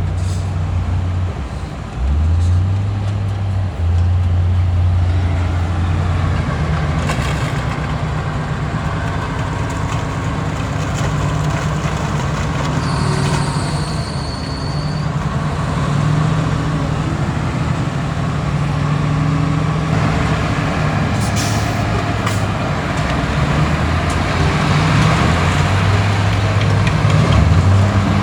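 Heavy diesel engines of earthmoving machines running steadily, the pitch dipping and rising with load. A short high-pitched squeal comes about halfway through, and there are a few brief hissing or clanking noises.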